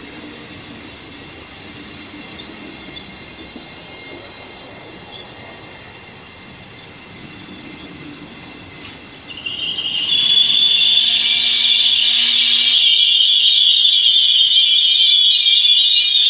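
Passenger train coaches rolling past with a steady rumble. About nine seconds in, a loud, high-pitched metallic squeal from the train's wheels starts and holds steady.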